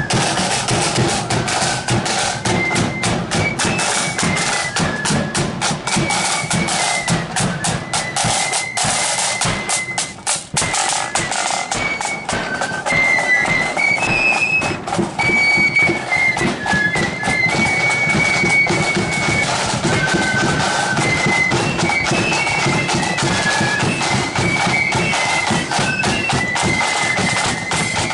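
Marching flute band playing a tune: massed flutes carry a high, shrill melody over a dense, steady beat of drums.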